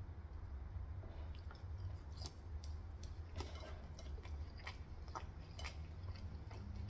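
Close-up chewing of Korean fried chicken: a string of irregular crunchy clicks, over a steady low hum.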